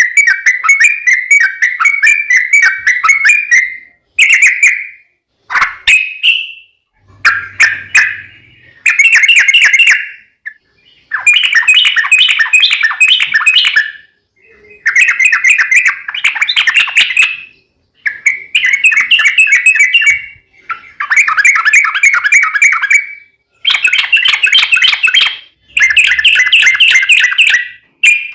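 Yellow-vented bulbul (trucukan) singing loudly in a string of chattering phrases. Each phrase is a fast run of bubbly notes lasting one to three seconds, with short breaks between them.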